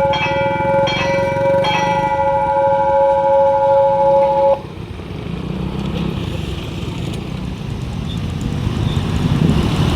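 Railway level-crossing alarm ringing with repeated electronic bell strikes, which cuts off suddenly about four and a half seconds in. Road traffic engines then run on and grow louder toward the end.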